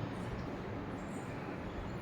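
Steady low background noise, an even hum or rumble with no distinct events.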